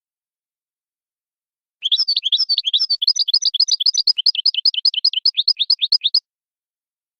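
European goldfinch song in the Wadani style: after about two seconds of silence, a fast run of repeated twittering notes, roughly seven a second, lasts about four seconds and then stops abruptly.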